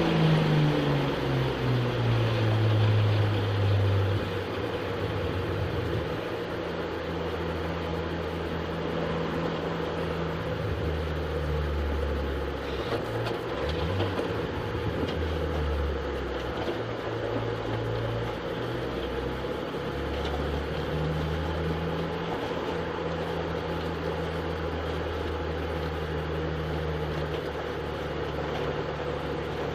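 A touring car's engine heard from inside the cabin, dropping in revs at the start, then running at low revs with the pitch stepping up and down as it rolls slowly, over road and cabin noise.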